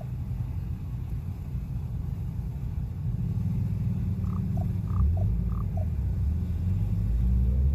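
Common raven giving a short series of quiet knocking notes, each a higher note followed by a lower one, in three quick pairs about four seconds in. A steady low rumble runs underneath and is louder than the calls.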